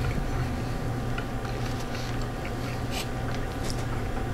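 A person chewing a mouthful of pulled pork sandwich, with scattered soft wet mouth clicks, over a steady low hum.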